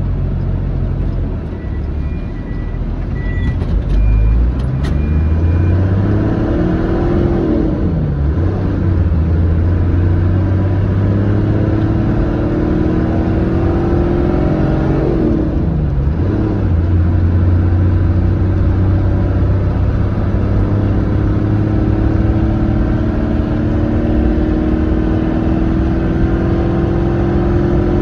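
A road vehicle's engine accelerating through its gears, over a steady low road rumble. Its pitch climbs steadily, drops back at gear changes about 8 and 16 seconds in, then climbs again.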